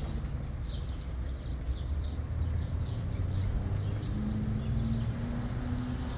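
Small birds chirping in short, repeated calls over a steady low rumble; a faint humming tone comes in about two-thirds of the way through.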